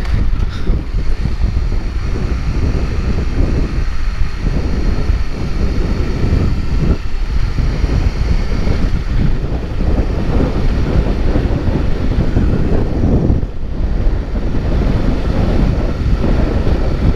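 Wind buffeting a GoPro's microphone while on the move: a loud, steady rumble throughout.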